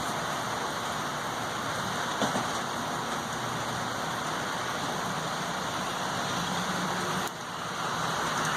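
Steady rain falling, an even hiss with a brief click about two seconds in and a short dip in level near the end.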